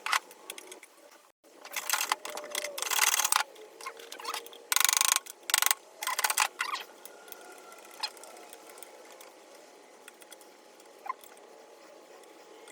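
Screwdriver working a flathead screw out of the saw's metal housing: bursts of metal scraping and rattling with a few clicks, then quieter handling of the parts.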